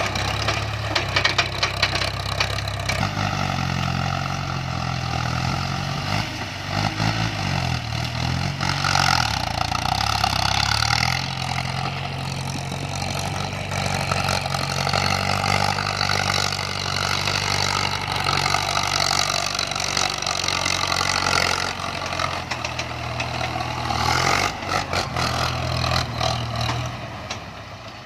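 Heavy diesel engine running at idle and fast idle, its revs rising and falling several times in the first ten seconds, then running steadily.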